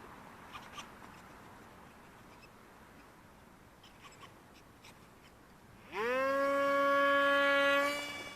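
Model plane's electric motor and propeller: faint wind hiss and small clicks, then about six seconds in the motor spins up sharply to a steady high whine for about two seconds before throttling back near the end.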